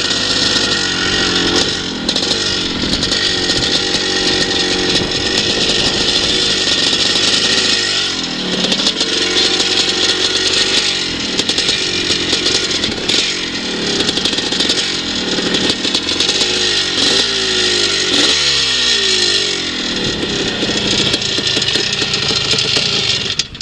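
Two-stroke engine of a vintage twinshock motocross bike being ridden slowly, its revs rising and falling over and over as the throttle is opened and closed. The engine sound drops away right at the end.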